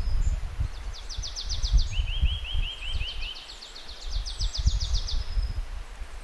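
Small songbirds singing fast trills of high, evenly spaced notes: one trill, then a lower run of notes, then a longer high trill. Underneath, a low uneven rumble of wind on the microphone is the loudest sound.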